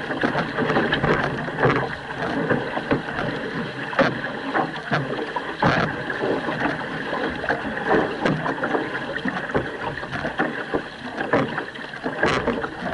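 Canoe paddles repeatedly catching and pulling through water with splashing, over the steady rush of water along the moving hull.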